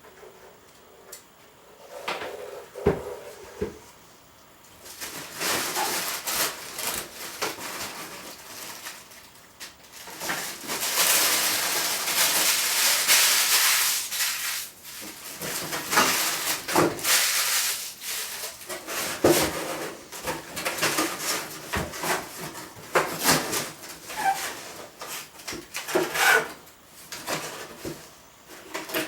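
Rustling and irregular clicks and knocks of hands handling packaging and blender parts, with a longer stretch of rustling around the middle.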